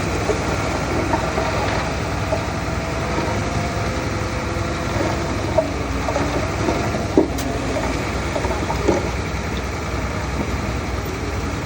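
Heavy construction machine's diesel engine running steadily, with a few short, sharp knocks about halfway through.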